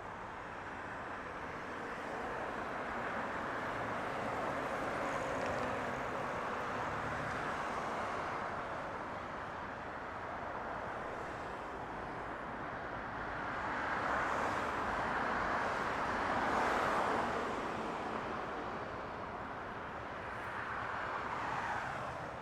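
Jet aircraft engine noise at an airport: a broad rushing roar that swells a few seconds in, grows loudest past the middle, and swells briefly again near the end.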